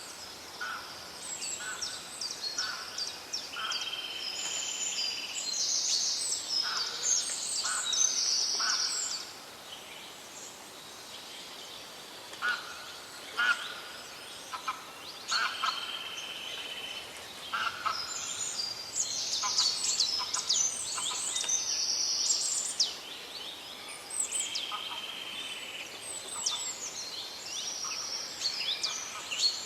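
Several songbirds singing together in a forest chorus: quick high chirps and sweeping notes, a buzzy trill held for a second or so that comes back a few times, and short lower notes in runs, over a soft steady hiss.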